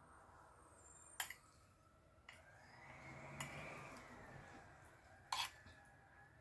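A few sharp clicks and clinks, like dishes or utensils being handled during a meal: four of them, the last a quick double and the loudest. A faint tone rises and falls in the background.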